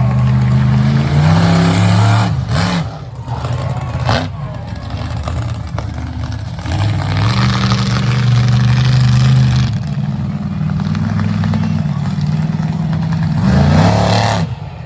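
Monster truck engine revving hard, its pitch climbing and falling as the throttle is worked. It breaks up briefly with a few sharp knocks about two to four seconds in, and revs up quickly and cuts back near the end.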